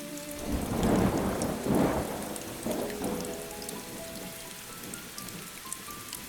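A rumble of thunder over steady rain: it swells about half a second in, peaks twice and dies away after about three seconds, while the rain keeps up a fine patter of drops.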